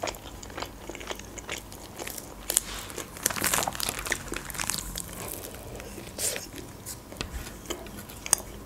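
Chewing of a shawarma wrapped in lavash, with a run of wet mouth clicks, and the crinkle of its clear plastic wrap being handled and pulled back, busiest a few seconds in.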